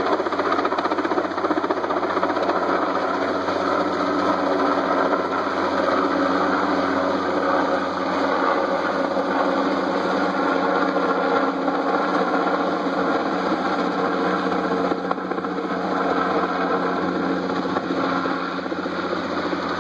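Firefighting helicopter's rotor and engine running steadily, with a fast, even chop.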